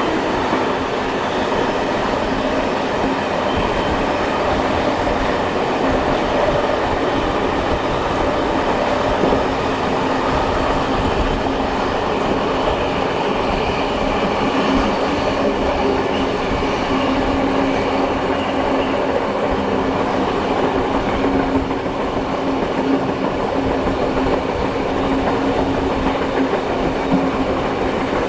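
Steam-hauled heritage passenger train heard from on board, running steadily: a continuous rumble of wheels on the rails with a steady hum, holding level throughout.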